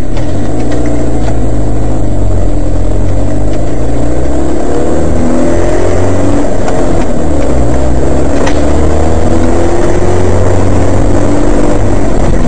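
Car engine running and pulling forward as the car drives, heard from inside the cabin through a dashcam microphone. The sound is loud and steady, with a low hum and an engine note that climbs slowly as the car gathers speed.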